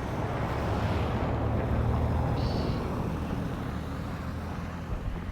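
A vehicle passing close by: a low rumble that swells about two seconds in, then fades, with a brief high squeal midway.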